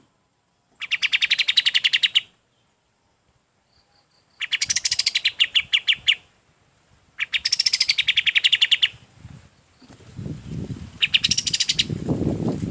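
Kapas tembak songbird singing in repeated bursts of a rapid, pulsing chattering trill, each about a second and a half long, four times with short pauses between. From about ten seconds in, a low rumbling noise sits under the last trill.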